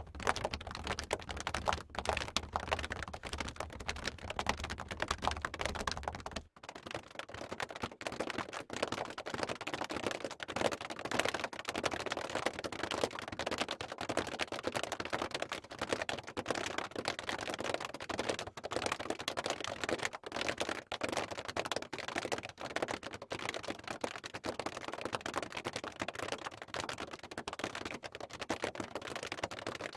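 Fingernails scratching skin in quick, dense, raspy strokes, in two separate takes, the second starting about six and a half seconds in.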